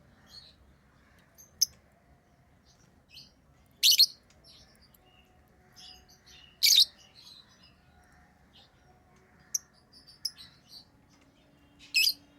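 Pet lovebirds chirping: short, sharp, high-pitched chirps every few seconds, the loudest about four, seven and twelve seconds in, with softer chirps between.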